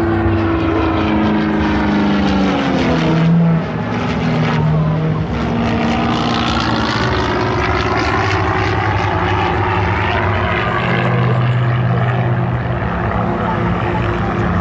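Propeller aerobatic planes flying past in a display, their engine drone sliding down in pitch as one passes about three seconds in, then a steady drone as more aircraft go by.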